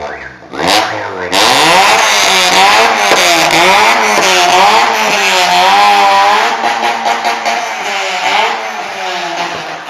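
Honda engine revving hard through a loud aftermarket exhaust. It climbs about a second in, is held at high revs with the pitch rising and falling, then eases off toward the end.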